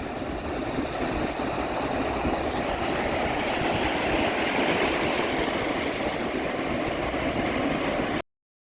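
Pacific Ocean surf: waves breaking and washing in over the shallows, a steady rushing that swells over the first few seconds, then cuts off suddenly near the end.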